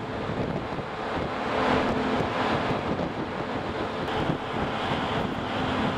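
Strong wind buffeting the microphone on a ferry's open deck, a steady rushing noise with a faint, constant low hum underneath.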